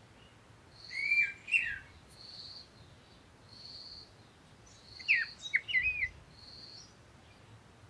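Birds calling: a short, high, even note repeats about once a second, while two louder phrases of quick sliding chirps come about a second in and again about five seconds in.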